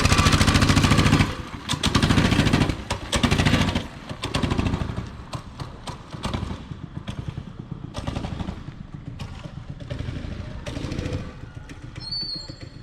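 Mini bike's small single-cylinder gas engine running loud, then revved in several short throttle bursts that grow fainter.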